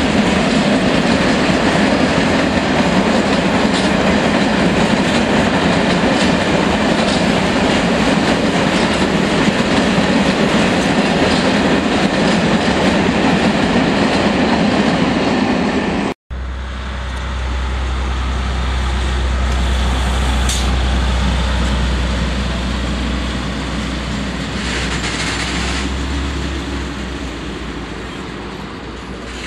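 A long freight train of hopper wagons rolling past, a dense steady rumble of wheels on rail with clickety-clack. About halfway through it cuts off abruptly. A steady low diesel locomotive engine drone follows, with quieter wagon rolling noise that fades near the end.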